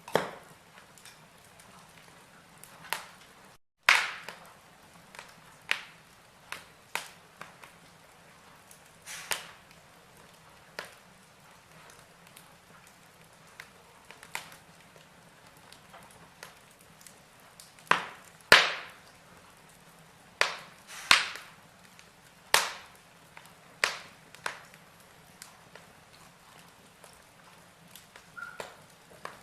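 Burning logs crackling in a fireplace: irregular sharp pops and snaps over a faint hiss, the loudest ones coming in a cluster about two-thirds of the way through.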